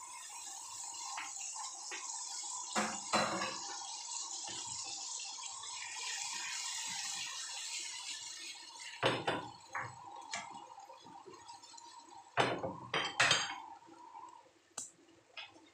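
Food sizzling in hot oil in a wok, with a spatula knocking and scraping against the pan a few times. The sizzle eases about nine seconds in, and two louder knocks come near the end.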